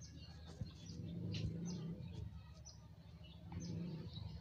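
Small birds chirping in short, high calls, over a low hum that swells up twice.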